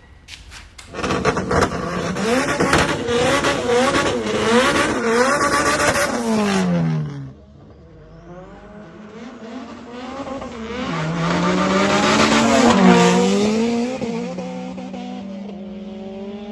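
A car engine revving hard with squealing tyres, in two runs: a loud one that ends with the revs dropping away about seven seconds in, then a second that builds, peaks about thirteen seconds in and fades.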